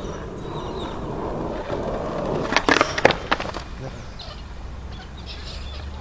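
Skateboard wheels rolling on concrete, then a quick cluster of sharp clacks of the board striking the ground about halfway through.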